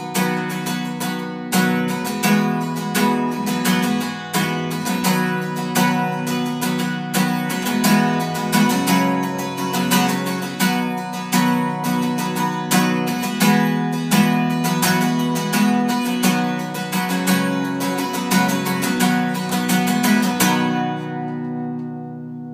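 Acoustic guitar strummed in a steady rhythm as the song's instrumental ending; about twenty seconds in the strumming stops and the last chord rings out and fades.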